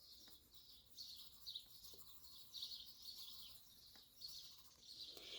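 Faint songbird chirping in the background, short high chirps repeated every half second or so.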